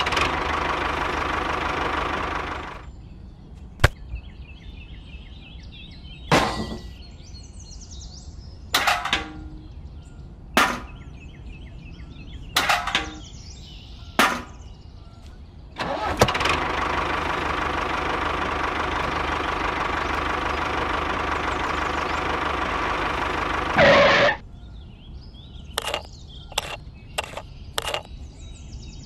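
Small electric DC motor of a handmade model tractor or its mini cement mixer whirring steadily, for about three seconds at the start and again for about eight seconds in the middle. In the quieter stretches between, small clicks and taps come from plastic and metal model parts being handled.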